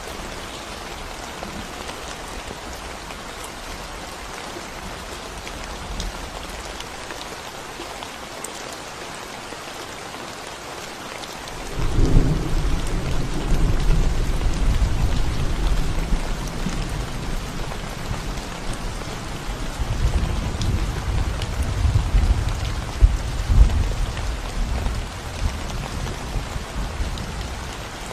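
Steady rain falling on a concrete road. About twelve seconds in, a low rumble of thunder sets in suddenly and rolls on, swelling and fading.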